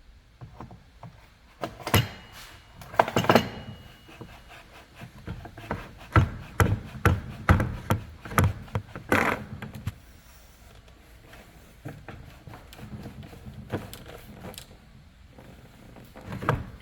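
Irregular knocks, clicks and rubbing of tools and trimmer parts being handled during a string trimmer repair, the loudest knocks about two to three seconds in and again around six to nine seconds.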